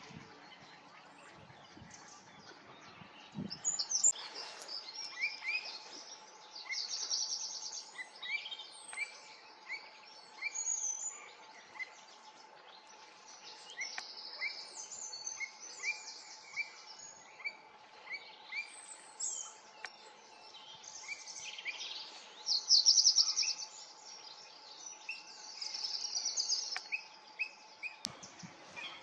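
Several songbirds singing and calling, a mix of short repeated chirps and fast high trills, over a faint steady tone.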